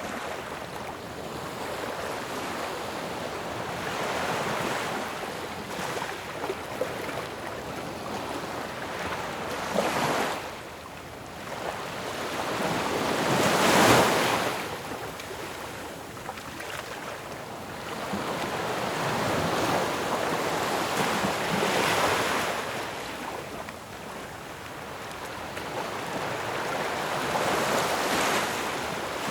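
Ocean waves breaking on a shore: a steady rush of surf that swells with each breaking wave, about every four to eight seconds, the loudest crash near the middle.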